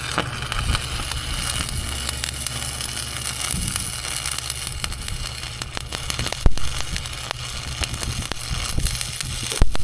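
Electric arc welder crackling and sizzling steadily through one continuous weld, cutting off near the end.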